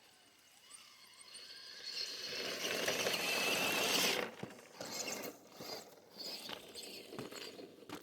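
Scale RC crawler truck's electric motor and gearbox whining under throttle as it crawls over rough ground, building for a few seconds and cutting off abruptly about four seconds in. Scattered small knocks and rustles follow.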